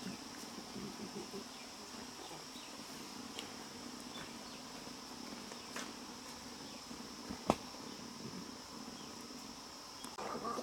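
Insects buzzing in a steady high drone, with faint animal sounds in the first couple of seconds. A few light clicks come through, the loudest a single sharp click about seven and a half seconds in.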